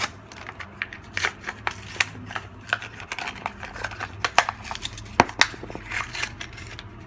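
Small parts and packaging being handled by hand: an irregular run of clicks, taps and crinkles, with two sharper knocks about five seconds in, over a steady low hum.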